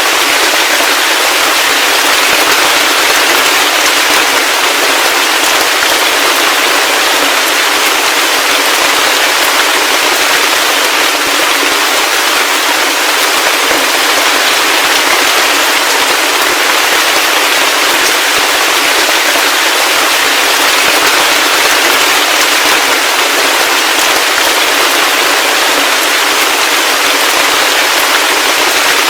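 Heavy rain falling steadily: a dense, even hiss with a fine patter of individual drops, and no low rumble.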